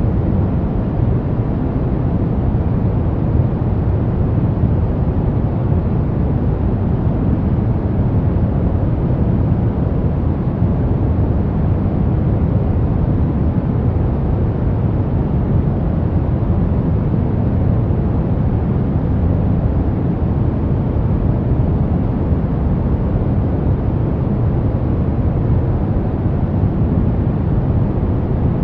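Steady synthetic pink noise, an even, unchanging hiss-like rush weighted toward the low end.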